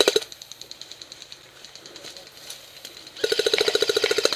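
Airsoft electric gun firing full-auto, a fast even mechanical rattle with a motor whir. A loud burst ends right at the start, fainter rapid fire from farther off runs through the middle, and another loud burst starts about three seconds in.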